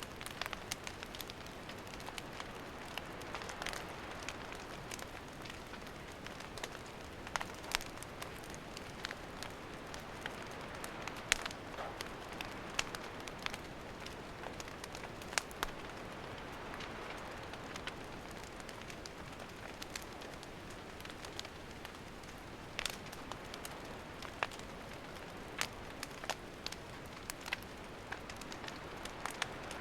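Wood campfire burning: a steady soft hiss of flames with irregular sharp pops and crackles from the burning wood, some louder snaps among them.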